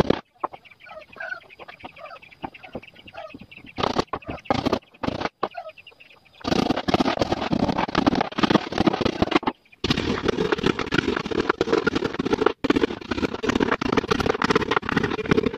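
Chickens clucking in short calls. About six seconds in, a loud, dense rasping noise of wood being worked starts, full of fine rapid clicks, and it breaks off abruptly twice.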